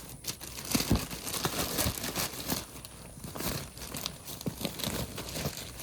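Packaging crinkling and rustling in irregular bursts as items are rummaged through and pulled out of a box.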